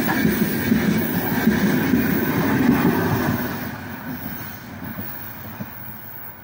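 Freight train wagons rolling past on the rails, a dense rumble and clatter of wheels and car bodies. The last wagon goes by about three seconds in, and the sound then fades steadily as the train moves away.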